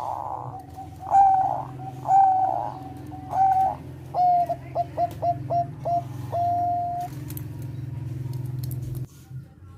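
Zebra dove of the Thai 'perkutut bangkok' strain singing: three longer coos, then a quick run of about six short clipped notes and a final held note. Under it runs a low steady hum that cuts off near the end.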